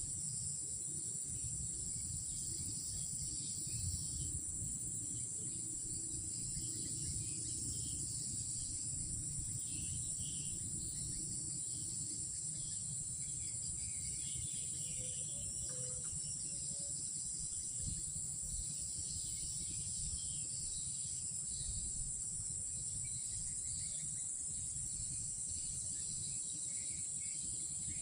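Night insect chorus: a steady, high-pitched trilling that never lets up, with scattered fainter chirps and a low rumble underneath.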